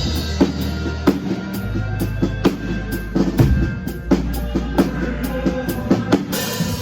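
Live band playing an instrumental passage: a drum kit keeps a steady beat with bass drum and snare over sustained bass-guitar notes, with no singing.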